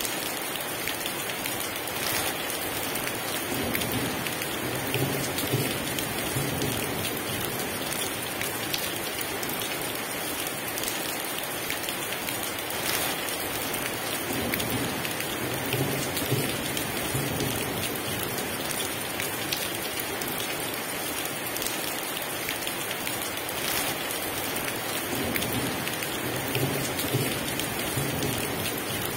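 Heavy rain falling steadily, with low rolls of distant thunder rumbling in three times, a few seconds each.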